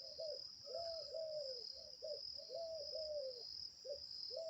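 An animal calling in a run of short hoots, each rising and then falling in pitch, mostly in quick pairs, over a steady high insect-like buzz.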